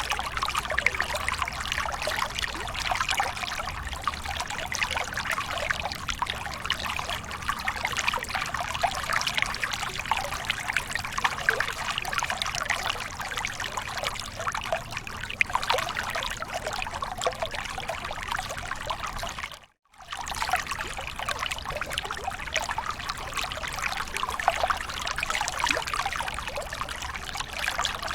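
Waterfall pouring and trickling, a steady splashing wash of falling water. About twenty seconds in it cuts out to silence for a split second, then resumes.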